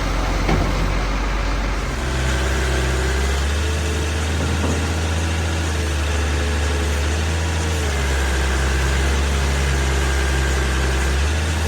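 A large engine running steadily at a low, even idle, its deep hum stepping slightly in pitch about two seconds in.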